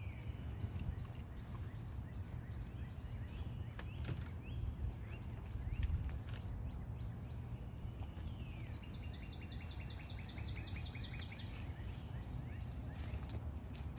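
Outdoor ambience: a steady low rumble with scattered songbird chirps, and past the middle a songbird's fast trill of about nine notes a second lasting a few seconds.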